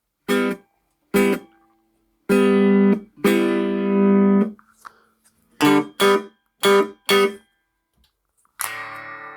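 Guitar chords played through a Peavey UltraVerb digital effects processor to test a preset: two short stabbed chords, two longer held chords, then four quick stabs, each cut off sharply. Near the end a different, ringing sustained sound comes in.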